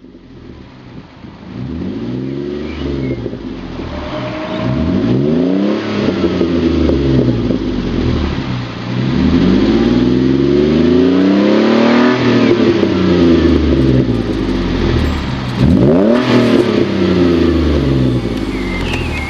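Ford Mondeo ST220's 3.0-litre V6 revved repeatedly through a BCS stainless steel performance exhaust. The pitch rises and falls about four times, with the longest rev climbing toward the twelve-second mark.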